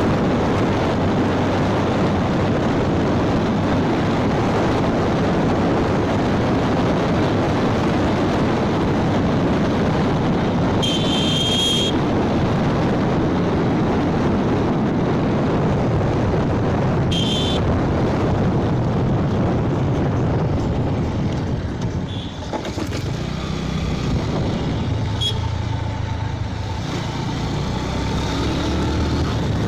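Wind and road noise from a motorbike riding at speed, with two short horn beeps about 11 and 17 seconds in. Past the two-thirds mark the wind noise eases, and the low, steady hum of the engine comes through.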